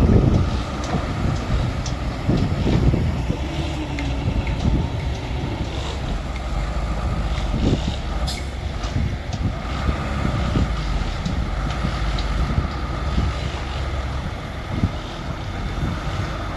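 Bulldozer working: its diesel engine running steadily, with scattered clanks and a faint intermittent whine from the machine.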